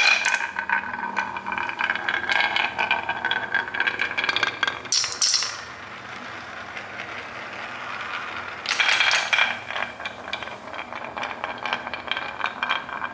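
Small hard objects rattling and clinking in quick runs of clicks, with a ringing tone behind them. There are two busy stretches, one at the start and one from about two thirds in, with a quieter gap between.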